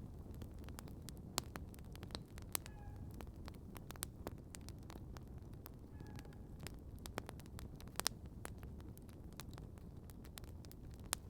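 Campfire crackling: irregular sharp pops and snaps over a low steady rumble of burning wood. Two faint short chirps, one a little under three seconds in and one about six seconds in.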